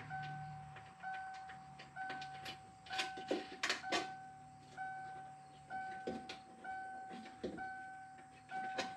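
A truck's dashboard warning chime dinging steadily about once a second, with light metallic clicks and knocks from tools and bolts being worked inside a door.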